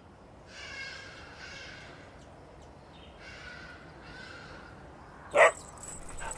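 A crow cawing four times in two pairs, harsh calls of about half a second each, followed by one short, sharp, louder sound about five seconds in.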